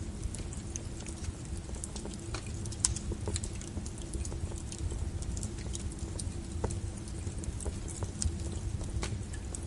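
Wood fire crackling: a steady low rumble of the flames with irregular sharp pops and snaps, a few louder ones about three seconds in and near the end.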